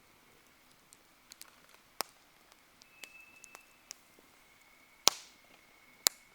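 Wood campfire crackling: scattered small snaps, with three sharp loud pops at about two, five and six seconds in.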